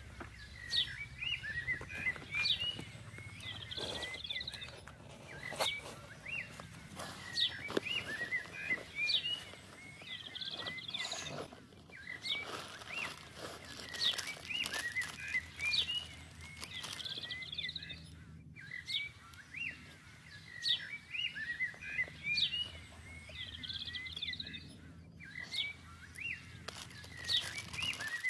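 Forest birds chirping: short rising chirps, several a second, repeated throughout, with occasional rustles and clicks.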